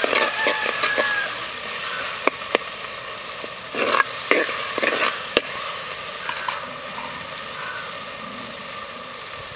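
Chopped tomatoes and onions sizzling in hot oil in a clay pot, stirred with a steel slotted ladle that scrapes and clicks against the pot. The stirring clicks fall in the first half; the sizzle runs on steadily.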